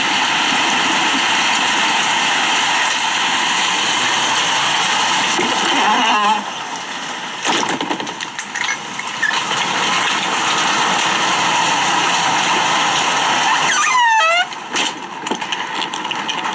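Heavy rain pouring down in a thunderstorm: a loud, steady rush of rain and wind. Brief squeaks come about six seconds in and again near the end.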